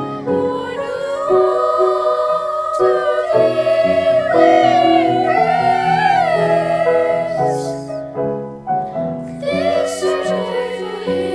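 Music: a voice or voices singing a long, gliding melody over a steady accompaniment, briefly thinning about eight seconds in.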